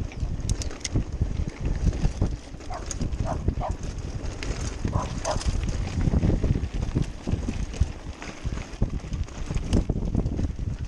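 Mountain bike rattling and knocking over rough trail ground, with wind buffeting the microphone. A few short high squeaks cut through, about three and five seconds in.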